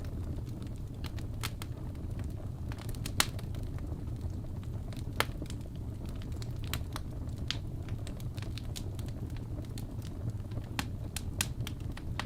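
Wood fire burning in a fireplace: irregular sharp pops and crackles over a steady low rumble of the flames, with two louder pops about three and five seconds in.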